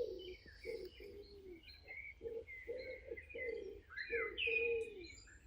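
Pigeons or doves cooing in a run of short, low coos, some falling at the end, with smaller birds chirping and trilling higher above them.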